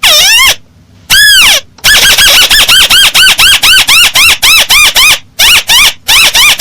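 Paddy-field crake (burung tikusan sawah) calling: a swooping note, then one long arched note, then a fast even run of short rising-and-falling notes at about five a second, broken briefly a little after five seconds in. The recording is loud and harsh.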